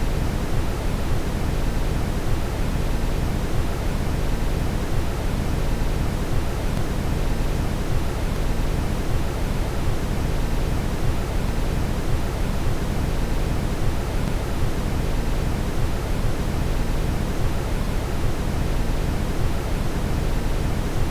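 Steady brown noise: an even, deep rushing hiss, strongest in the lows, with no changes.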